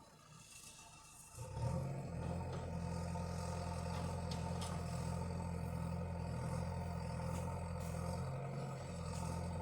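Tractor engine running steadily with a low, even drone that comes in about a second and a half in.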